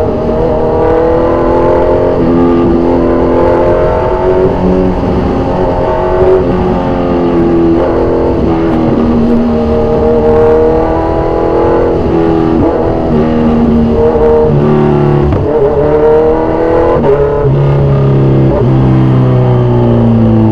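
Kawasaki Z1000's inline-four engine through loud aftermarket exhausts, revving up and down over and over, its pitch climbing and dropping many times. It settles into a lower steady tone near the end.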